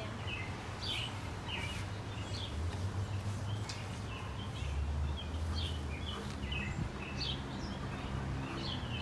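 Birds chirping in short, scattered calls over a low steady background rumble that swells for a few seconds in the middle.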